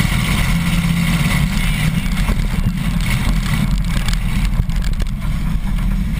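Demolition derby car's engine running, heard from inside its stripped-out cabin as a loud, steady low drone.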